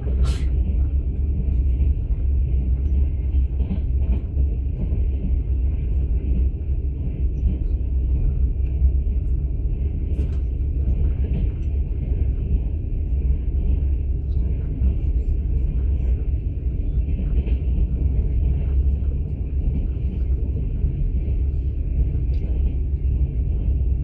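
Steady low rumble of a moving passenger train, heard from inside a platzkart (open-plan sleeper) carriage. A couple of faint clicks come through over it, one right at the start and one about ten seconds in.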